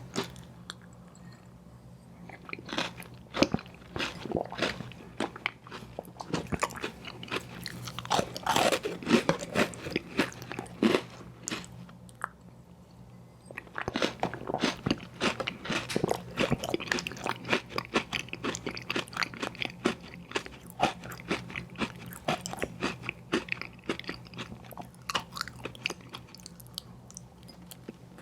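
Close-miked biting and chewing of ice cream sandwiches: irregular crunchy, wet clicks and smacks, pausing briefly about halfway through, over a faint steady low hum.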